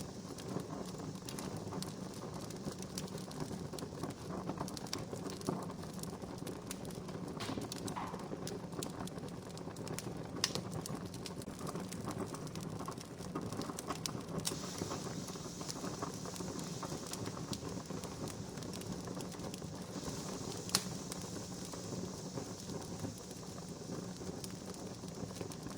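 Wood fire burning with a steady low rush and scattered crackles and pops, two of them sharper than the rest.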